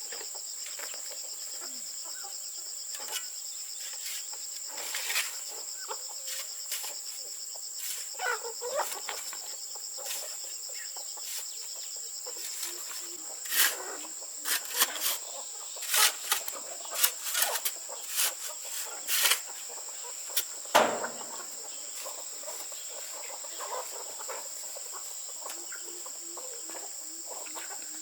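Chickens clucking over a steady, high-pitched insect drone, with a run of sharp clicks and knocks in the middle.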